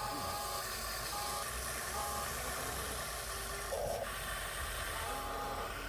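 Radio-controlled 1/14 scale model trucks running on dirt: a steady hiss with a thin mechanical whine that comes and goes.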